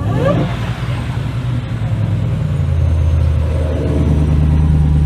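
Hemi V8 running loud through open exhaust cutouts: a deep, steady rumble, with a short rise in pitch right at the start. About two and a half seconds in, the rumble settles into a stronger, even note.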